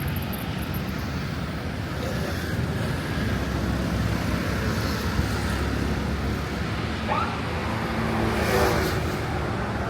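Steady city road traffic noise, a low rumble of passing vehicles, with a short rising sound about seven seconds in and a slight swell in loudness near the end.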